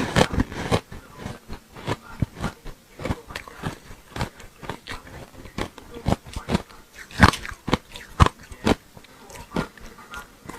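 A person biting and crunching chunks of ice coated in matcha green tea powder, close to the microphone. The crunches come one after another at an uneven pace, with the loudest bites about seven and eight seconds in.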